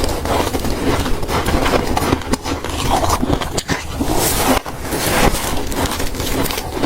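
Freezer frost being bitten and chewed: a dense, irregular run of crunches and crackles.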